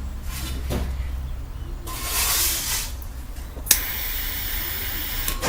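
A short hiss about two seconds in. Then a click and a steady hiss with a faint whine that runs for about a second and a half and cuts off suddenly near the end.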